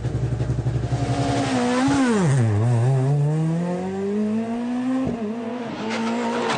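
Rally car engine at full load on a stage. Its pitch drops sharply about two seconds in as the revs fall under braking and downshifting, then climbs steadily as the car accelerates. There is a short break at a gear change near five seconds, after which the revs hold steady.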